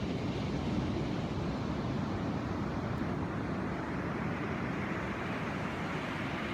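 Steady rush of surf with wind buffeting the microphone, a low, even roar without any distinct events.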